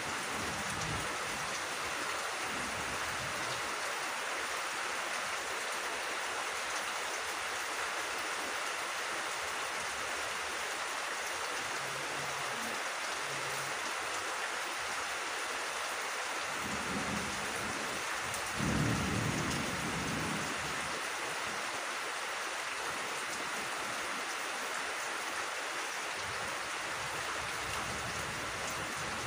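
Steady rain falling on fields and leafy vegetation, an even hiss, with a brief low rumble about two-thirds of the way through.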